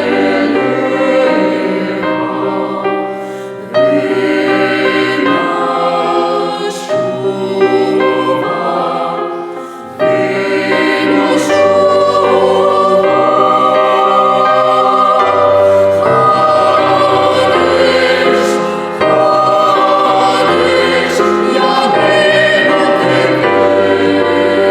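Vocal ensemble singing in harmony: several voices holding chords and moving in phrases, with the singing dropping back and coming in again strongly about 4 and 10 seconds in.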